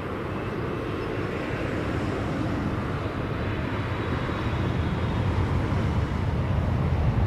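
Jet airliner engines heard as a steady rushing noise, growing slowly louder, with a low rumble that strengthens near the end.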